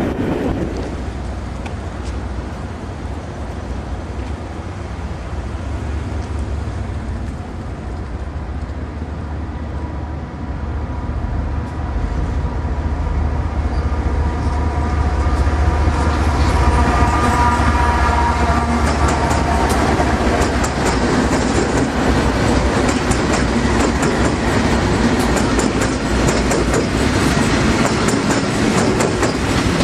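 Diesel freight train passing: a heavy low engine rumble that builds through the first half, then from about twenty seconds in the cars rolling by with rapid clicking of wheels over the rails.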